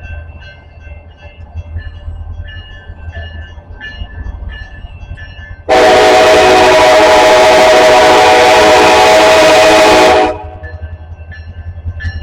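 Level-crossing bell dinging about twice a second over the low rumble of an approaching train, cut across by one long, very loud blast of a locomotive's multi-chime air horn lasting about four and a half seconds, after which the bell keeps ringing.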